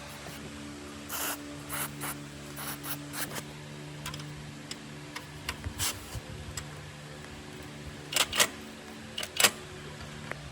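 Scattered scraping and rubbing noises and sharp clicks from hand work, over a steady low hum. The loudest clicks come about eight and nine and a half seconds in.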